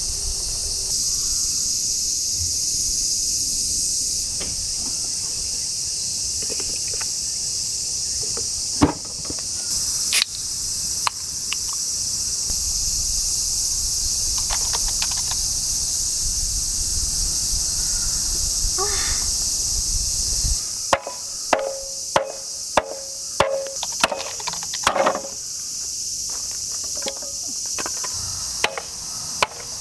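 Insects chirping steadily in summer. A few separate knocks come about a third of the way in, then, about two-thirds in, a run of sharp knocks at roughly two a second, like chopping or hammering.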